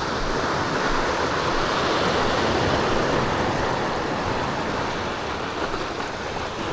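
Sea surf washing steadily against the shore rocks, a continuous rush of water without distinct breaks.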